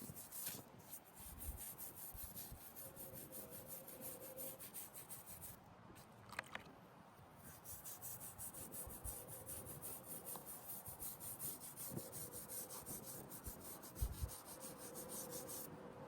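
A brush scrubbing a stone headstone in quick, even back-and-forth strokes, with a short pause about six seconds in.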